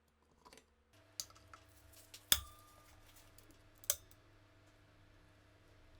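Small metal parts clicking and clinking, about five sharp clicks spread over a few seconds. The loudest comes a little over two seconds in and rings briefly.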